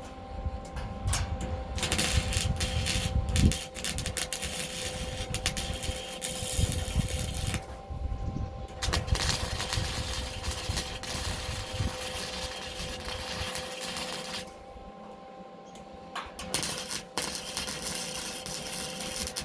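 Gasless flux-core MIG welder arc crackling and spitting as weld beads are laid on steel bumper pieces. It breaks off briefly about eight seconds in and again for about two seconds around three-quarters of the way through.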